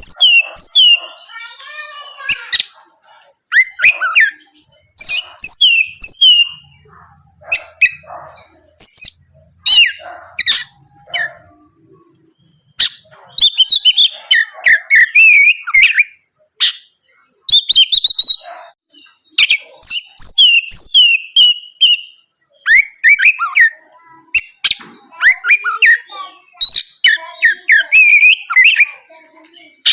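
Oriental magpie-robin (kacer) in full song: loud, varied phrases of sharp, quickly gliding whistles and chattering notes, with short pauses between them.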